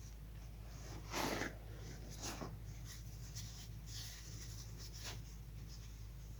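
Chalk being crumbled, crunching in a few short bursts, the loudest about a second in and a second one about two seconds in, with fainter crumbles after, over a steady low hum.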